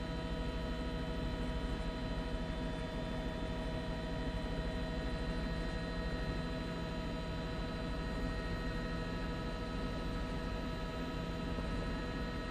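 Helicopter cabin drone: the engine and rotors make a steady hum with many held tones over a fast low pulsing.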